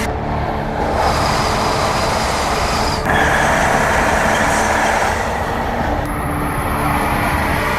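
Trains running, a steady rushing noise that changes abruptly three times as the sound jumps from one train clip to the next.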